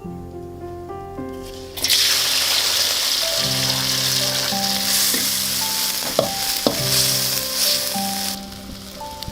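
Food sizzling in hot oil in a pan. The sizzle starts suddenly about two seconds in, as if something has just gone into the oil, and drops away near the end, with a few sharp clicks along the way.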